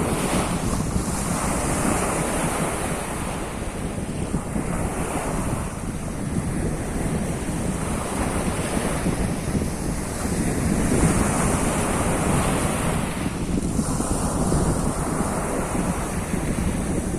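Sea of Azov waves washing onto the shore, the surf swelling and falling every few seconds, with wind buffeting the microphone.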